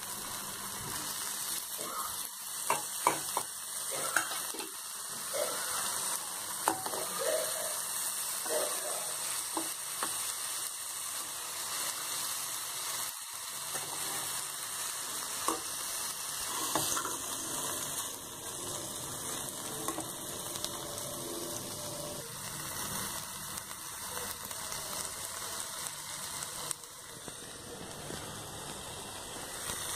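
Paneer cubes and masala sizzling in a non-stick pan, with a spatula clinking and scraping against the pan as it is stirred, the knocks coming thickest in the first ten seconds or so.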